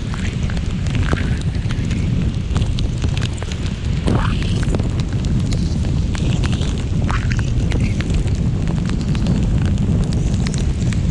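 Heavy rain pelting a moving car, heard as a constant low roar of rain and wind with a dense patter of drops striking. A few brief squeaks come through the roar.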